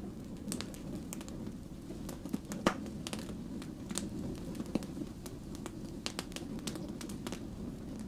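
Wood fire crackling: a steady low rumble of burning with irregular sharp pops and snaps, the loudest pop about two and a half seconds in.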